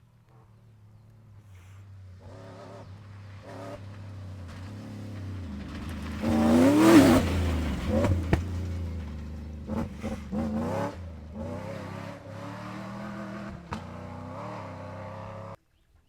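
Cross-country rally car engine, growing louder as the car approaches and loudest about six to seven seconds in as it passes. The revs then rise and fall several times as it drives on. The sound cuts off abruptly near the end.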